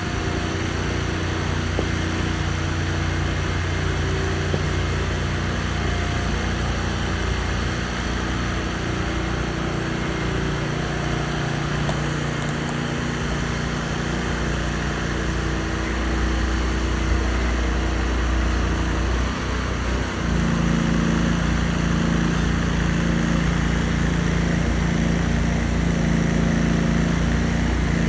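Truck engine running steadily. About twenty seconds in it steps up to a higher, slightly louder speed and holds there.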